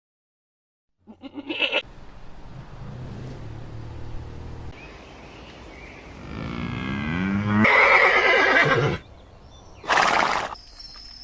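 Farm animals calling, after a second of silence. First comes a short call, then a long call that rises in pitch and grows louder, then a loud rough blast about ten seconds in.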